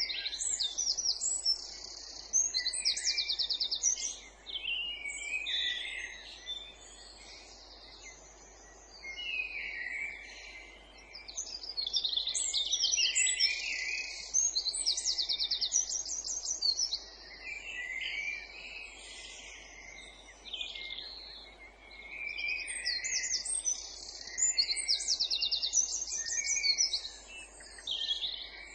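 Songbirds singing, with phrases of varied whistled notes and rapid trills coming in bursts of a few seconds with short pauses between.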